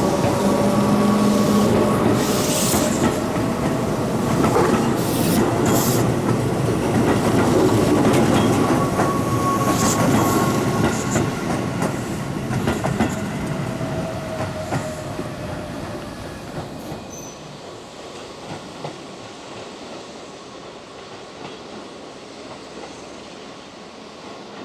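Keihan 1000-series electric commuter train pulling out of the station: motor tones and rolling noise, with wheels clicking over the rail joints. The sound fades away over several seconds about two-thirds of the way through, leaving low background noise.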